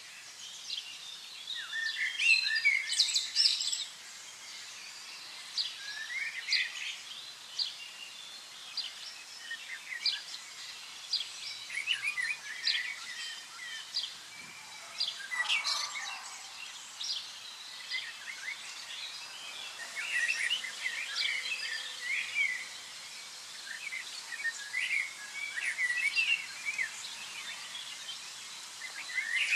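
Small songbirds chirping and singing in many short calls, over a faint steady background hiss.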